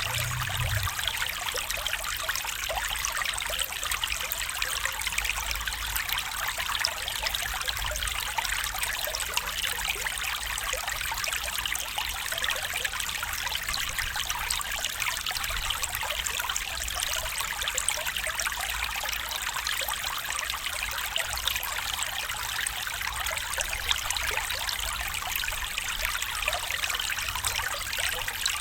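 A stream of water running steadily over stones, a continuous trickling and babbling with many small splashes and a faint low rumble underneath.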